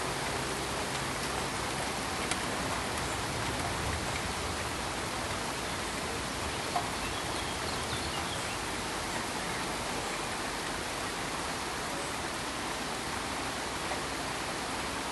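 Steady pink noise, an even, unbroken hiss with two faint clicks, one about two seconds in and one near the middle.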